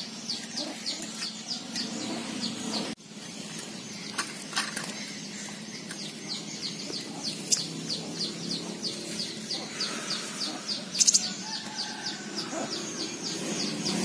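Small bird chirping in a steady, rapid series of short high notes, about four a second, broken briefly about three seconds in, with one louder, sharper note a little after ten seconds.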